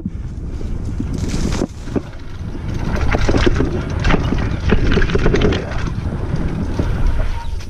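Wind buffeting an action camera's microphone as a mountain bike rides over rough trail, with the bike rattling and knocking over bumps. The knocks are thickest in the middle of the stretch.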